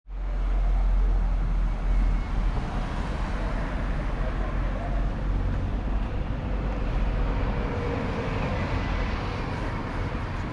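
Steady running noise of a moving road vehicle: a deep rumble with a hiss over it, starting suddenly as music cuts off.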